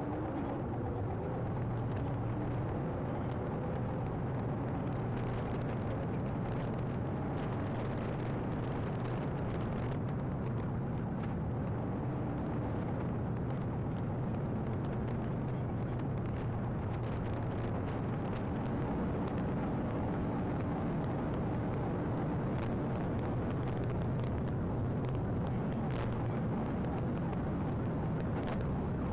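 Steady rumble of a moving vehicle during a police pursuit, engine and road noise with scattered faint clicks and no siren.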